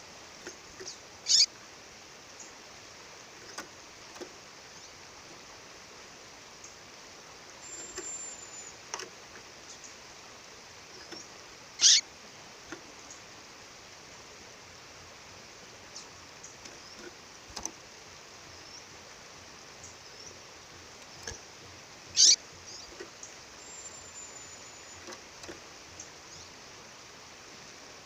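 A female bird calling with short, sharp high chirps, three loud ones about ten seconds apart and fainter ones between, over the steady rush of a waterfall.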